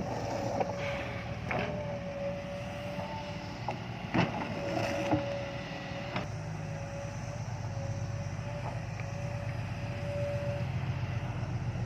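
Isuzu 360 diesel truck's engine running at low revs while the tractor unit reverses to couple a trailer, with a few sharp knocks along the way. The engine note grows stronger about halfway through.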